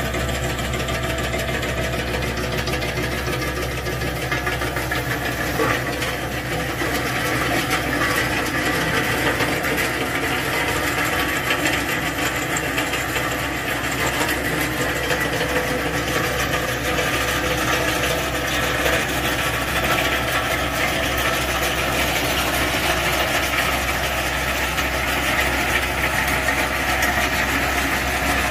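Geumseong Industry GS-1500 threshing machine running steadily, a constant mechanical drone with no change in speed.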